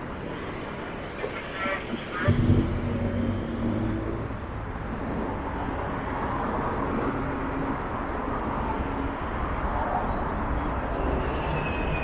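City street traffic from a busy road. About two seconds in, a heavy vehicle's engine starts close by with a low hum and runs on under the steady traffic noise.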